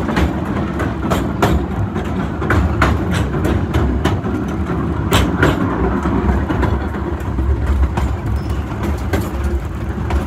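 Narrow-gauge passenger train rolling along: a steady low rumble with irregular sharp clacks of the wheels over the rail joints.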